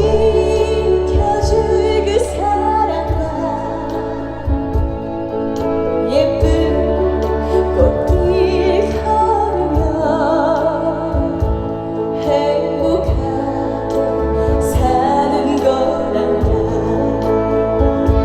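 Female vocalist singing a slow trot song live, with vibrato on held notes, over instrumental accompaniment with a steady bass line.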